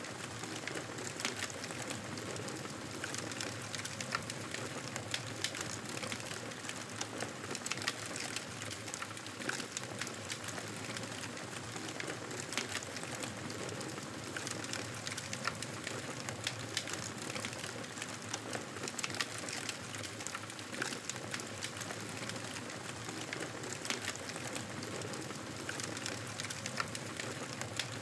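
Campfire burning, with a steady hiss and frequent sharp crackles and pops of the burning wood.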